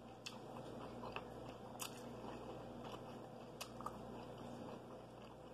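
Faint chewing of a mouthful of food, with a few soft mouth clicks scattered through, over a low steady hum.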